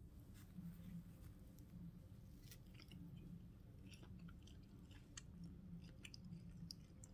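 Faint chewing of food, with small scattered clicks and crunches, over a low steady room hum.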